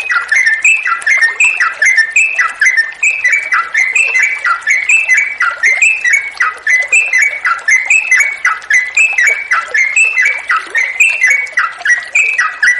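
Yellow-vented bulbul (trucukan) singing vigorously, a long unbroken run of quick, bubbling whistled notes, each dropping in pitch, about four or five a second.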